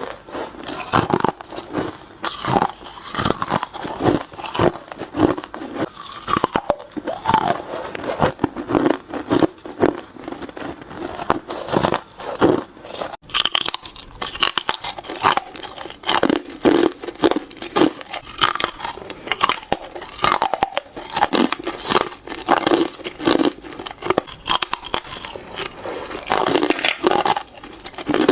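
Hard ice being bitten and crunched between the teeth, one crunchy bite after another in quick, irregular succession.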